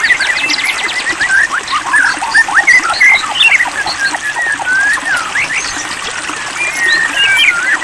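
White-rumped shama singing a long, varied song of clear whistled notes, quick up- and down-sweeps and chattering phrases, with a rapid trill of short notes just after the start.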